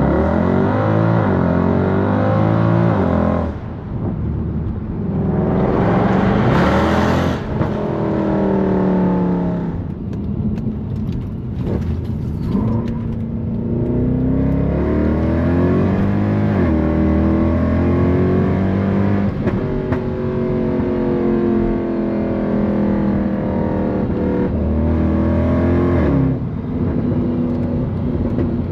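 Straight-piped, naturally aspirated Mercedes-AMG M156 V8 in a 2009 C63 AMG P30, accelerating hard through the gears. The exhaust note climbs in pitch and drops back at each upshift, several times over.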